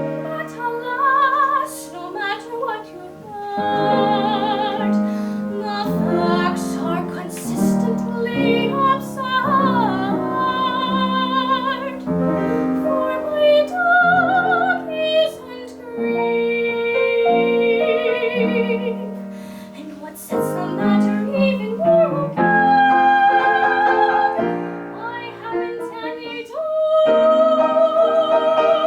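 A classical female voice singing a song with wide vibrato, accompanied by piano.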